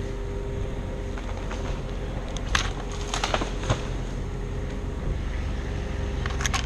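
An engine running steadily at idle, with a handful of sharp clicks and knocks about two and a half to four seconds in and again near the end.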